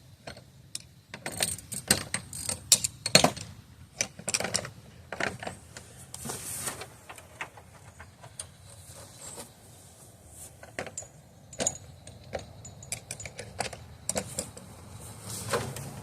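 Loose metal tools clinking and rattling, an irregular run of sharp clicks and clanks, busiest in the first few seconds and again near the end, as sockets are handled to find the size that fits a bolt.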